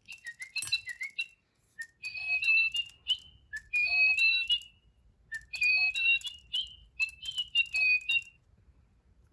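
Little Live Pets Lil' Bird toy playing its electronic tune, a run of whistled, bird-like chirps through its small speaker. The tune comes in about four short phrases with brief gaps between them.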